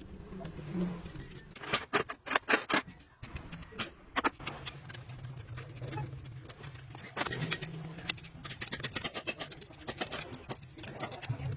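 Workshop clatter: a string of sharp metallic clinks and knocks with some scraping, as hand tools work on metal parts, over a low steady hum.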